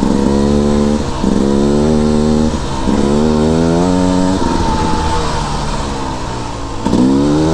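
Beta 300RR two-stroke dirt bike engine revving hard under acceleration. The pitch climbs and drops off three times in the first four seconds, runs lower and steadier for a couple of seconds, then climbs again near the end.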